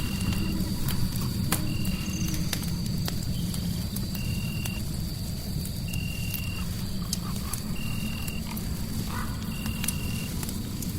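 Fireplace fire crackling with scattered sharp pops over a low steady rumble, layered with a short high chirp that repeats about every two seconds and a thin steady high tone, like a night animal calling.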